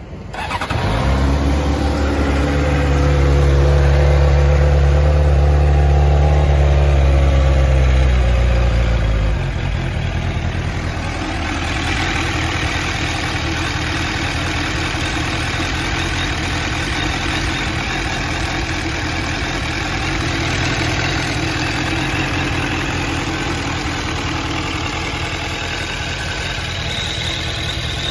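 Stock Suzuki GSR600 inline-four engine starting and running at a steady idle. The sound is strongest for the first nine seconds or so, then becomes quieter and even about ten seconds in.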